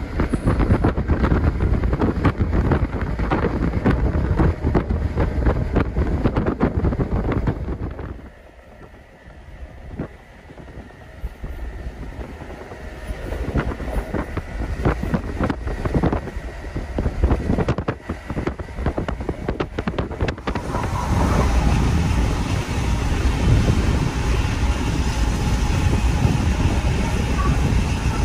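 Night train running at speed: rolling rail noise mixed with wind on the microphone. About eight seconds in, the noise drops to a quieter rumble with scattered clicks, then builds to a steady loud low rumble from about twenty seconds.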